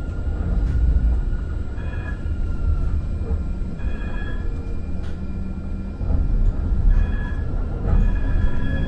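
Muni Metro light-rail car in motion on the N Judah line, a steady low rumble of the train running. Brief high tones come and go every couple of seconds, and the rumble grows louder about six seconds in.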